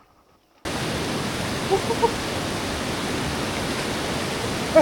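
Steady rushing of a waterfall, starting abruptly just under a second in, with a few short faint calls partway through.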